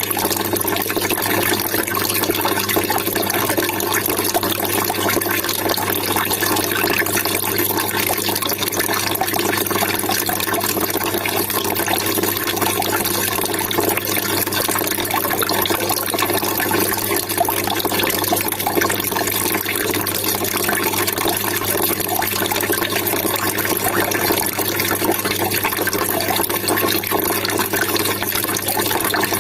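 Water trickling and splashing continuously and evenly, with no breaks, over a faint steady low hum.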